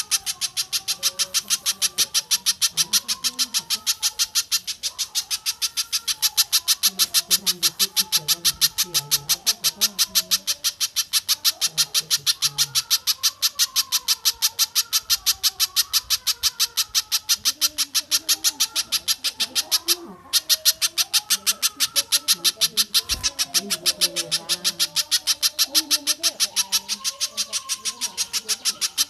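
A bird repeating one sharp, high note rapidly and evenly, several times a second, in a long unbroken series with a brief pause about twenty seconds in. Fainter, lower, wandering bird calls run underneath.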